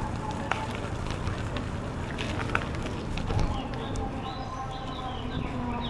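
Steady rumble of wind and bicycle tyres rolling along a path, with scattered clicks and rattles from the bike. Short bird chirps come in over the last two seconds.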